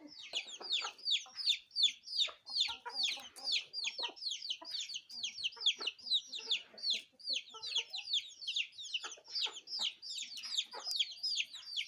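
Birds chirping without a break: many short, high chirps a second, each falling in pitch, with fainter lower clucking sounds underneath.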